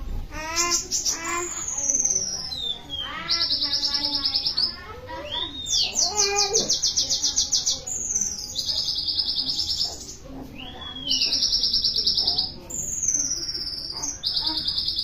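A songbird singing a varied, loud song: several fast high trills, each lasting about a second, alternate with descending whistled notes and lower gliding phrases.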